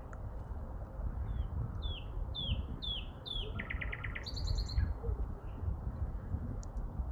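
A songbird sings one phrase: five down-slurred whistled notes, then a fast trill and a brief higher flourish. Underneath runs a steady low rumble.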